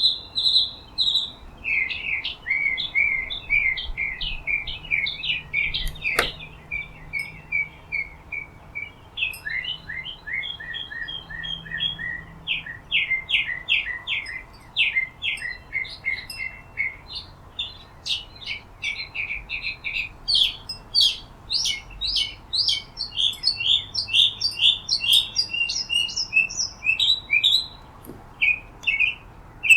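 Small songbirds chirping and twittering without pause, a dense chorus of short, high chirps. A single sharp click about six seconds in.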